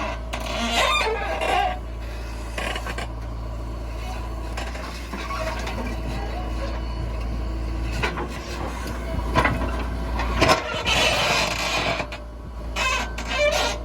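JCB 3DX backhoe loader at work: a steady low engine hum under wavering squeals, with a few sharp clanks past the middle.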